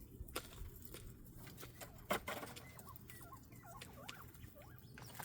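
Bobwhite quail making soft, short chirping calls amid light scratching and pattering in the aviary litter, with one sharp tap about two seconds in.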